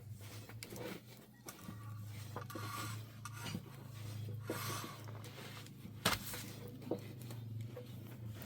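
Rubbing and scraping handling sounds with two sharp knocks about six and seven seconds in, over a steady low hum.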